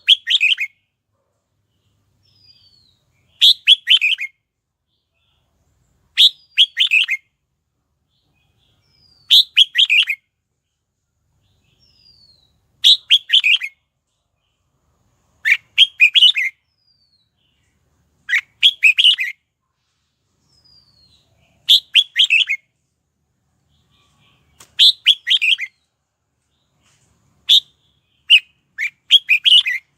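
Red-whiskered bulbul singing: short, bright chattering song phrases repeated about every three seconds, each with a faint falling whistle just before it. The phrases come quicker and closer together near the end.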